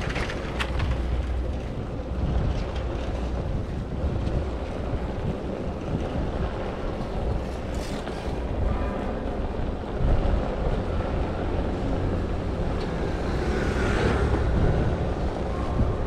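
Wind buffeting the microphone in a steady low rumble while riding a Super73 S2 electric bike, with road noise underneath and a few small clicks.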